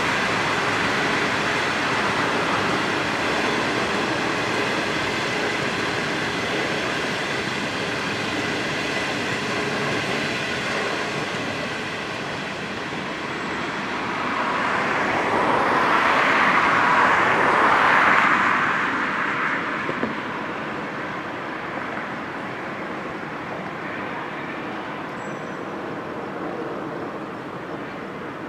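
Train running past on the line: a steady rush of wheels on rail that swells to its loudest a little past the middle, then fades.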